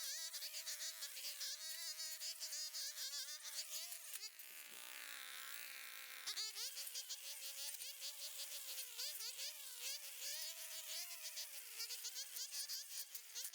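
Small two-stroke engine of a string trimmer or brush cutter running at high revs with a wavering whine, its line cutting through grass. The engine note drops for about two seconds near the middle, then climbs back up.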